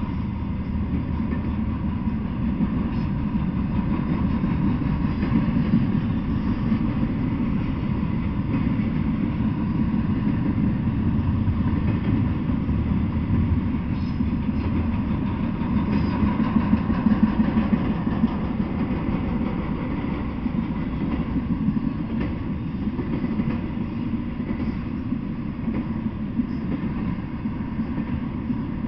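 Intermodal freight train rolling past: a steady rumble of wheels on rail, with a few faint clicks.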